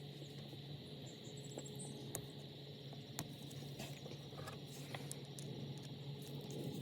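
Scattered small clicks and taps, a few sharper than the rest, over a steady low hum and hiss.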